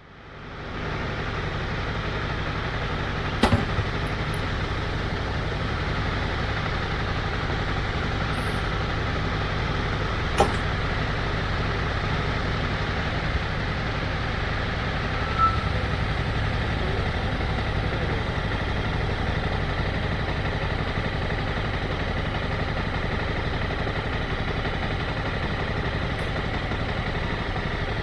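Motorcycle engine idling steadily, with a couple of sharp clicks.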